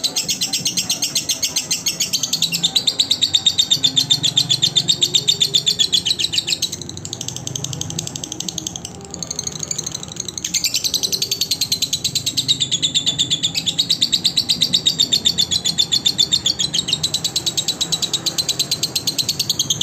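Lovebird singing a long, rapid chatter of high chirps. It eases off about seven seconds in and picks up again at around ten seconds.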